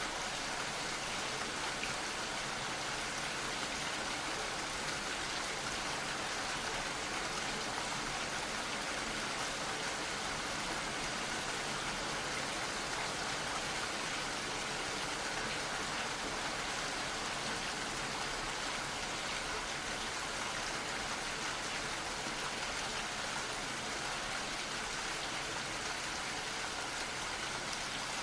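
Gentle, steady rain falling, an even patter of drops with no breaks or distinct events.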